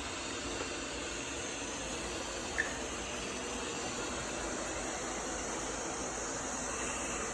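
Kilgone robot vacuum-mop running with a steady whir of its suction motor and brushes, and one brief high chirp about two and a half seconds in.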